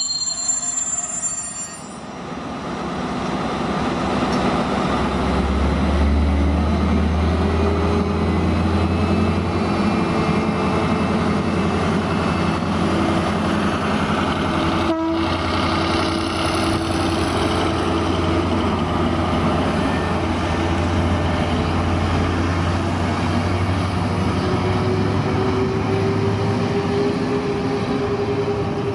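GB Railfreight Class 73 electro-diesel locomotive passing close by at the head of Network Rail track inspection coaches. Its steady low drone is mixed with the loud, even rumble of the wheels on the rails, with a brief high-pitched squeal in the first second.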